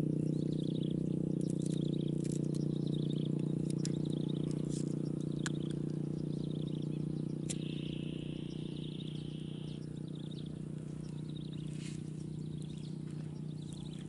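Birds chirping in short repeated trills over a steady low drone. About eight seconds in, a buzzy trill holds for about two seconds.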